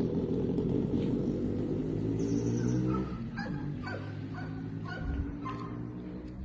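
A motorcycle engine running steadily for about three seconds, then dropping away as a dog gives a quick run of short high yips.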